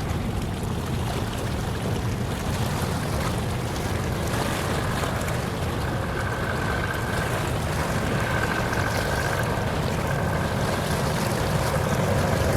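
Steady harbour-side rumble of wind and sea water, with a faint high tone that comes and goes several times in the second half.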